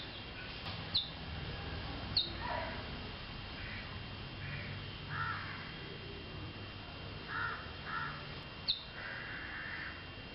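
Birds calling: a series of short, harsh calls spaced about a second apart, with three brief, sharp high chirps that drop in pitch.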